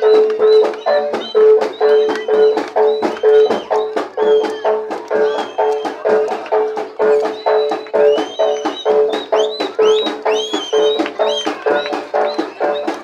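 Live jaranan ensemble music: drums and percussion strike a fast, even rhythm under a steady held note, with short high sliding notes on top.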